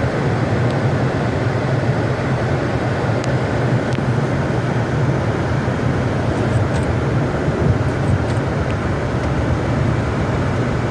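Steady cabin noise of a car on the road: a low engine and road rumble, with the air-conditioning fan blowing onto the windscreen to clear the fog.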